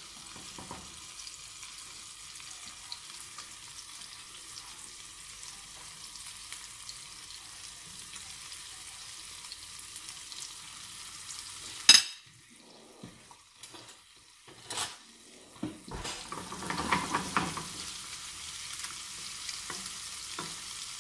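Egg-dipped bread slices sizzling steadily as they fry in butter in a non-stick pan. About twelve seconds in, a sharp knock, after which the sizzle drops away; a few knocks and a clatter of a metal spatula against the pan follow before the sizzle comes back.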